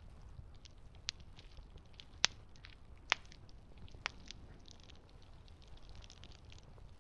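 Campfire burning, the wood crackling with scattered small pops and four louder, sharper snaps in the first half, over a faint low rumble.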